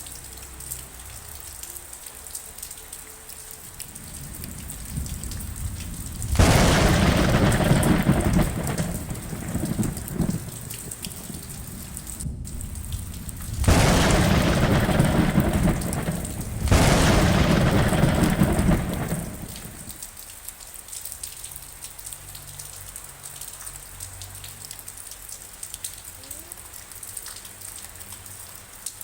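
Rain falling steadily, with thunder in the middle: three loud, deep rolls that each start suddenly and rumble on for a few seconds before fading back to the rain.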